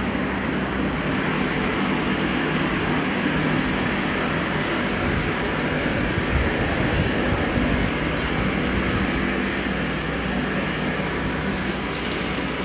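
Stationary electric multiple-unit passenger train humming steadily with its onboard systems running.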